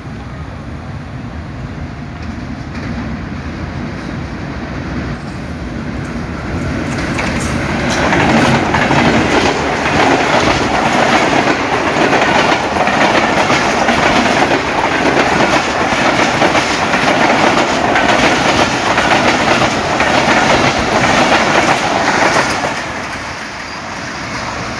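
Passenger express train pulling into the station past the microphone, its wheels clattering steadily over the rail joints. The sound builds over the first several seconds, stays loud for about fourteen seconds as the coaches roll by, then drops away sharply near the end.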